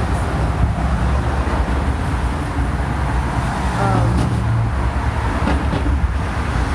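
Steady low engine and road rumble inside a moving vehicle.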